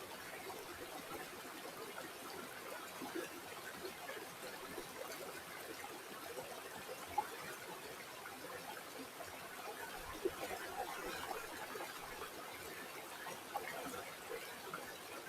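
Shallow river water trickling and babbling steadily over stones, a busy patter of small gurgles, with a couple of brief sharper splashes about seven and ten seconds in.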